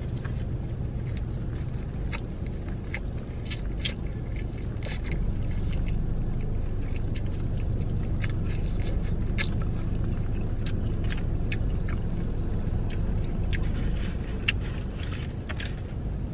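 Close-up eating sounds: biting and chewing seasoned takeout food, with many short sharp crunchy clicks, over the steady low hum of the car it is eaten in.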